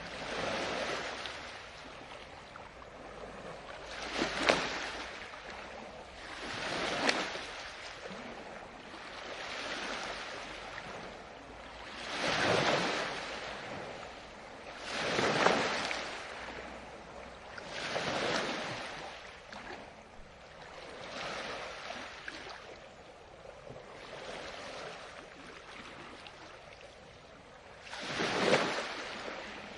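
Ocean waves breaking on a beach, one surge every two to three seconds, some crashing louder than others, each washing out into a quieter hiss.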